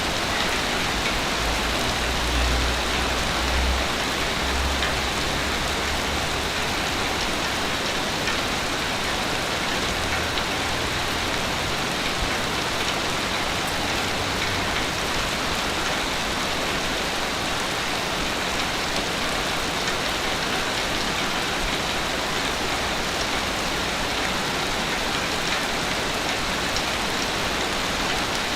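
Ocean waves washing on a beach as a steady hiss of surf, with low rumbles of breaking swell about two to five seconds in and again around ten to fifteen seconds in.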